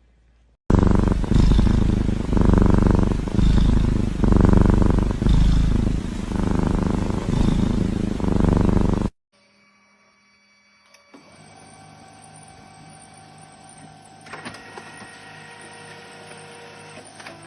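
Domestic cat purring loudly close to the microphone, swelling and easing about once a second with its breathing. It stops abruptly about nine seconds in, followed by a faint steady hum.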